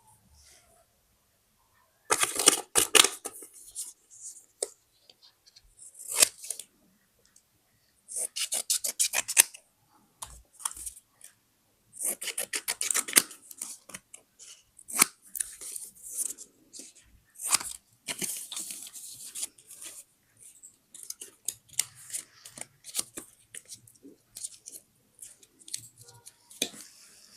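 Paper crafting: scissors snipping through paper in quick runs of cuts, with paper rustling and being handled between the bursts.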